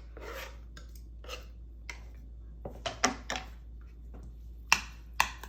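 A utensil clinking against a dish, about five sharp knocks in the second half, while chopped coriander and mint are added to yogurt for raita.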